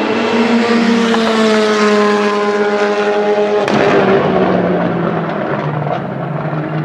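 Rally car engine held at high, nearly steady revs, then dropping sharply in pitch about halfway through and running on at lower revs with a few short sharp cracks.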